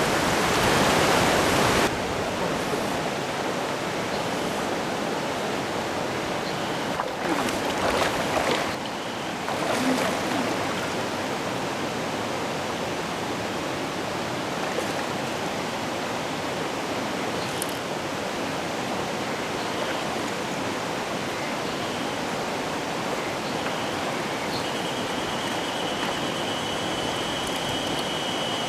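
Mountain stream water running steadily over rocks, louder for the first two seconds, with a few brief splashy disturbances about seven to ten seconds in. A faint, steady high tone comes in over the water near the end.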